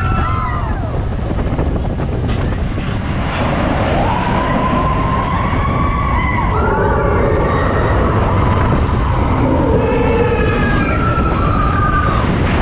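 Roller coaster ride noise: steady rumble of the coaster train with wind on the microphone, and riders' long, high, drawn-out screams over it, several at once near the end.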